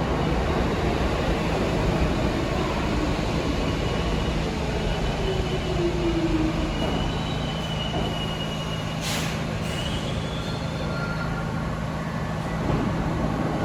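New York City subway train running with a steady rumble and low hum, its wheels squealing in thin high tones for several seconds in the middle. A short burst of hiss comes about nine seconds in.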